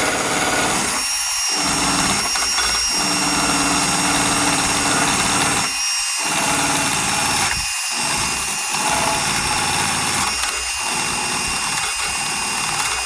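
Handheld power tool spinning a paint-stripping wheel against the painted steel body of a 1988 Ford F-250, running steadily. The low hum drops out briefly about five times.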